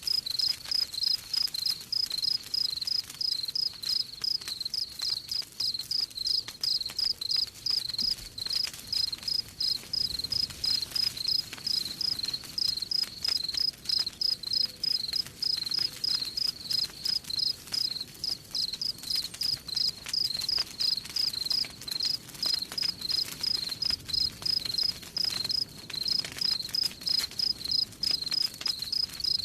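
Cricket chirping steadily in an even rhythm, about three high chirps a second, over a faint crackle of a campfire.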